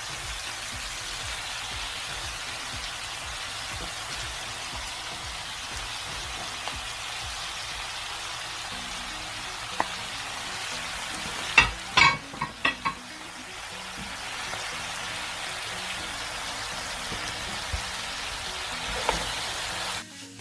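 Rice vermicelli stir-fry with prawns, chicken and vegetables sizzling steadily in a hot pan as it is stirred. A few sharp knocks come about halfway through.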